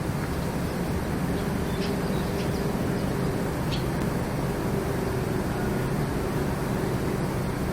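A steady, unexplained low droning hum with several held low tones. A few brief high chirps come between about one and a half and four seconds in.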